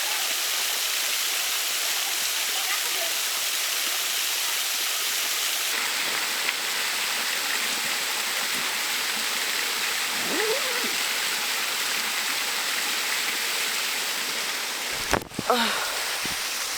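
Small waterfall rushing steadily, with faint voices under it and a short bump about fifteen seconds in.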